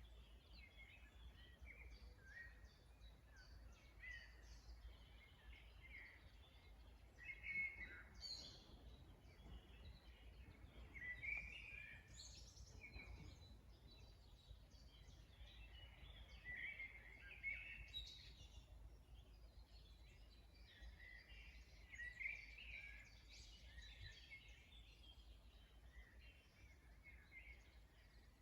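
Faint chorus of several songbirds chirping and trilling, with short calls overlapping throughout and a few louder phrases, over a steady low rumble.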